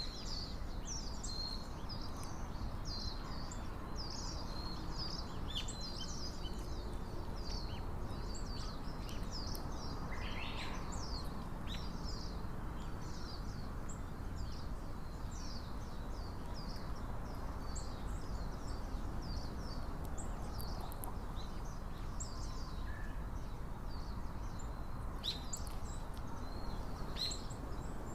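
Small birds chirping and calling, many short high notes one after another throughout, over a steady low background hum of outdoor noise.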